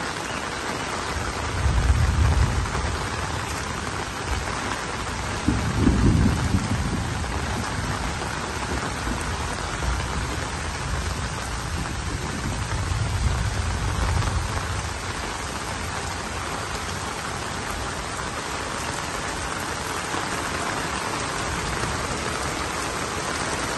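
Heavy rain falling steadily, a dense even hiss of drops. Three deep low rumbles swell up through it: about two seconds in, about six seconds in, and around halfway.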